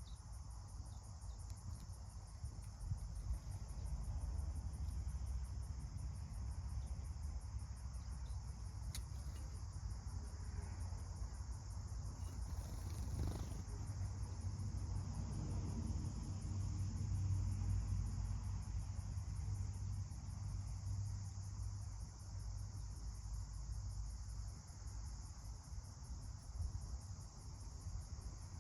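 Insects chirping in a high, fast, even pulse, with a steady high hiss beneath, over a low rumble.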